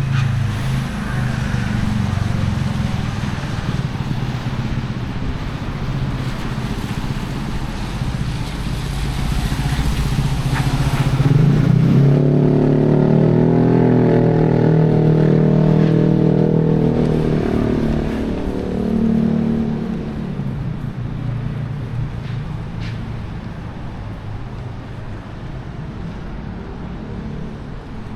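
Motor traffic on a rain-wet city street: engines running past over a steady wash of road noise. One vehicle's engine grows loud and close about twelve seconds in, holds for several seconds, then fades.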